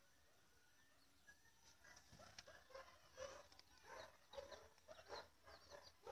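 Faint, short, irregular bird calls, starting about two seconds in and coming several times a second.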